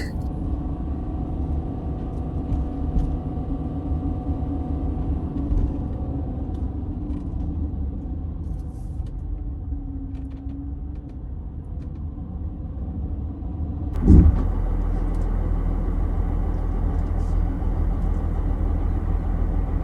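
Motorhome driving on a mountain road: a steady low engine and road rumble with a constant drone. About 14 seconds in there is a brief thump, and the rumble turns louder and hissier.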